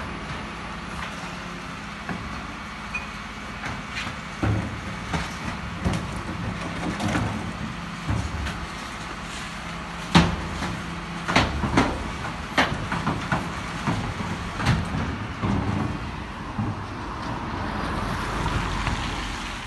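Garbage truck engine running steadily, with irregular metallic clanks and knocks over it. The loudest clank comes about halfway through, followed by a run of them over the next few seconds.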